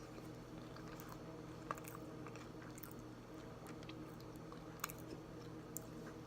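Close-miked chewing of a salted caramel protein bar: soft, moist mouth sounds with a few sharp clicks.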